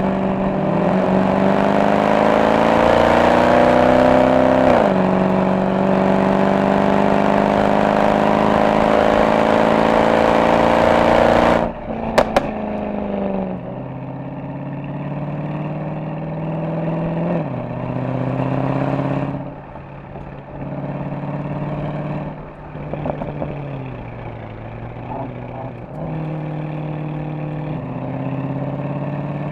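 Mercedes-AMG SL63 V8 exhaust under hard acceleration, its pitch climbing through the gears with a shift about five seconds in. About twelve seconds in the throttle is lifted and the level drops suddenly with a couple of sharp pops, then the engine runs quieter at part throttle with several brief lift-offs and a few light crackles.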